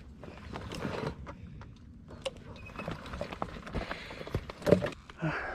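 A motorcycle being pushed by hand over creek-bed rocks: scattered knocks, clicks and scrapes from footsteps and tyres on stones, with one louder knock near the end.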